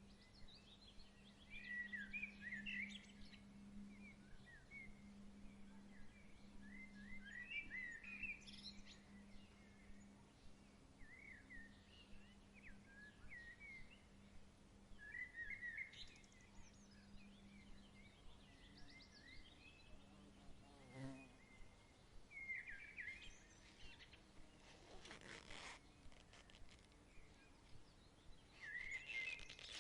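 Faint birdsong: short chirping phrases repeat every second or two throughout. A low steady hum runs under the first half. A brief rustle comes about 25 seconds in.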